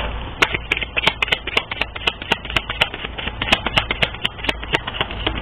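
A quick, irregular run of sharp light taps or clicks, about four a second.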